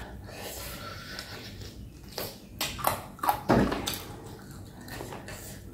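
Close-up mouth sounds of chewing deboned chicken feet pickled with lemongrass and kumquat: wet chewing and smacking, with a cluster of short crunchy clicks between about two and three and a half seconds in, the loudest near three and a half seconds.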